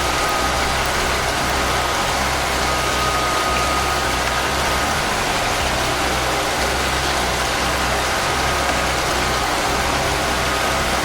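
Steady rain with an even hiss, over a low steady hum that drops away briefly a few times. A faint thin tone sits above it for the first few seconds.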